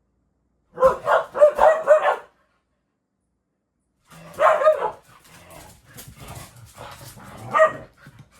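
A pet dog barking indoors: a quick string of about five short barks, then after a pause of about two seconds another bark followed by softer yips and whines.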